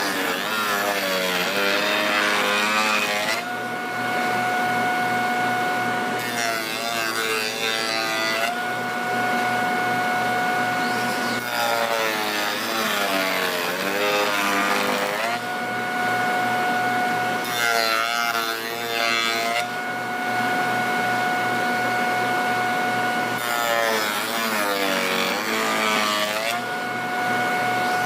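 A woodworking power tool running with a steady high whine. Five times, for a few seconds each, its pitch sags and wavers as it is loaded cutting wood, then it settles back to the free-running whine.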